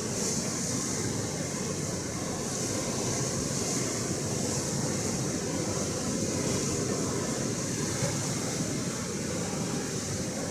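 Steady rushing noise of Atlantic Ocean surf, with wind rumbling on the microphone.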